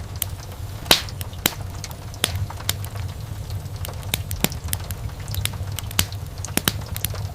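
Wood fire burning in a fireplace: irregular sharp crackles and pops over a steady low rumble of the flames, with louder pops about one second in, near the middle and about six seconds in.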